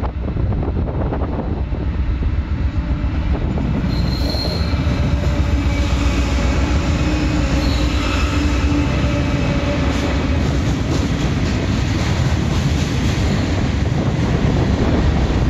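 Diesel-hauled freight train passing close by. The locomotives go by with steady engine tones through the middle, then covered hopper cars roll past with continuous wheel and rail noise.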